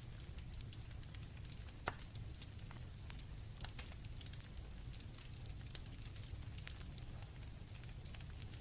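Campfire crackling with scattered small pops and one sharper snap about two seconds in, over a low steady rumble. Crickets trill steadily in the background.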